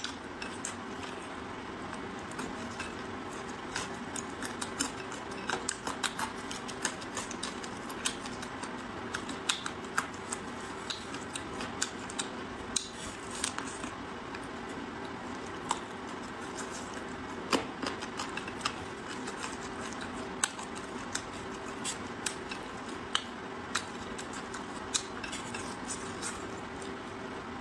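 Close-miked eating of spicy braised chicken feet: chewing and sucking on skin and cartilage, with small wet mouth clicks and crunches at irregular intervals. A steady low hum sits underneath.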